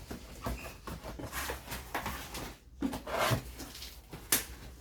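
Cardboard delivery box being opened and handled by hand: rustling and scraping with scattered clicks and knocks, and a sharp click about four seconds in.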